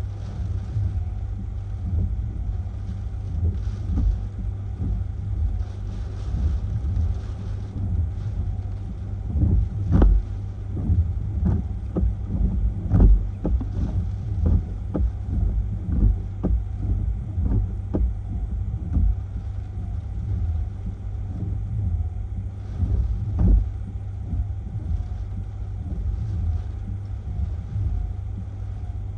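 Hurricane-force wind gusting and buffeting the microphone as a deep, uneven rumble, with a few sharper thumps in the strongest gusts, about ten and thirteen seconds in and again near twenty-three seconds.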